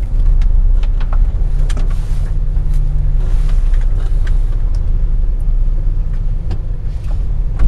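GMC Sierra pickup's six-cylinder engine running, a steady low rumble heard from inside the cab, with a few faint clicks.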